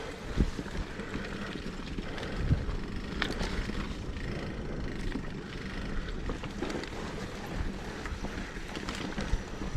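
Mountain bike rolling down a dirt trail: steady tyre and wind noise on the microphone, with a few sharp knocks and rattles as the bike goes over bumps.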